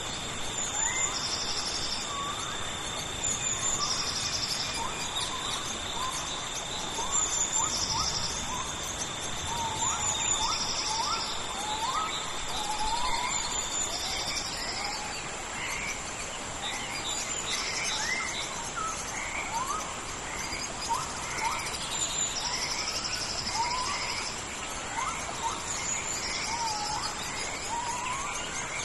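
Tropical rainforest ambience. Insects hold two steady high-pitched buzzes, the lower of which stops about halfway through. A pulsed trilling call repeats roughly every two seconds, over many short rising chirps from birds.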